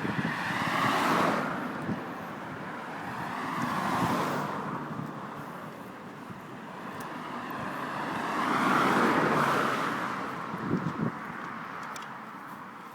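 Road traffic: three cars passing one after another, their tyre and engine noise swelling and fading about a second in, around four seconds and around nine seconds.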